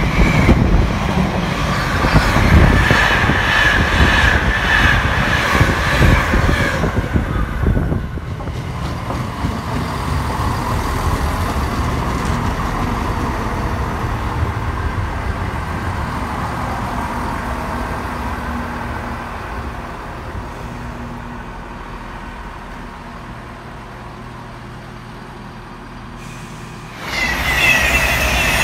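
A container freight train passing close with loud wheel rumble and a high metallic screech from the wagons. After a cut, a CrossCountry diesel multiple unit runs with a steady low engine drone that slowly fades. Near the end an express passenger train rushes past at speed, suddenly loud.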